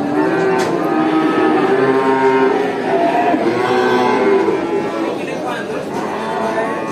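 Many cattle mooing at once, long overlapping calls that rise and fall in pitch with no break between them.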